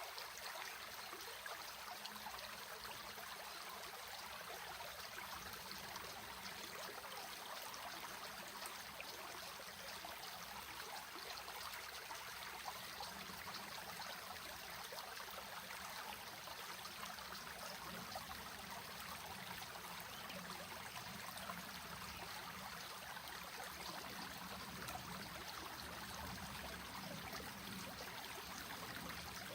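Stream water flowing and trickling steadily, an even rushing babble with no breaks.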